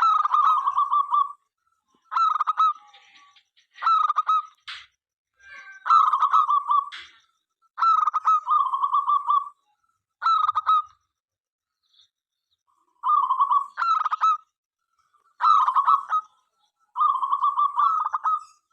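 Zebra dove (perkutut) cooing: about nine short phrases of rapid staccato coos, separated by pauses of up to about two seconds. Two brief clicks fall in the middle.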